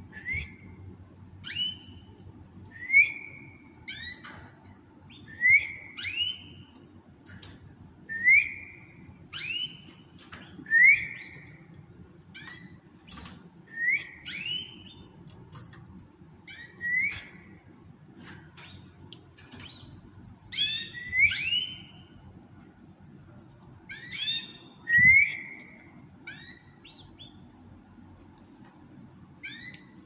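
Small caged pet birds calling over and over, a short chirp about every second or second and a half: each a quick falling note followed by a brief clear whistled note.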